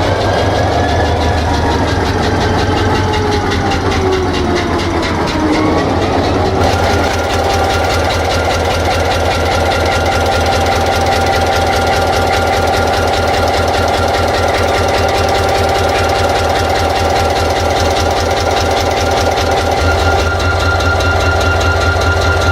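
EMD GT-26 locomotive's 16-cylinder turbocharged diesel engine running under test. It gives a steady low rumble with a whine that falls in pitch over the first six seconds or so and then holds steady.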